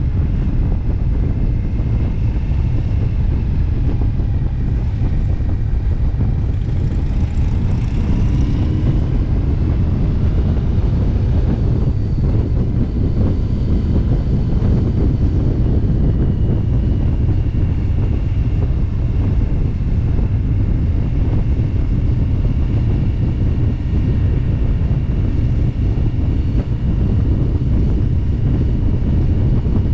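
Indian motorcycle cruising at road speed: the engine running steadily under heavy wind rushing over the microphone.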